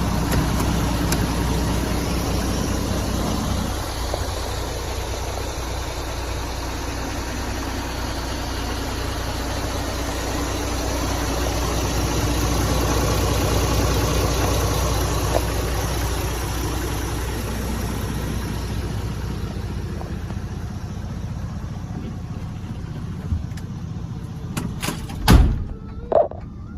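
Scania R450 tractor unit's diesel engine idling with a steady low rumble. Near the end the rumble fades out, and two loud thumps follow about a second apart.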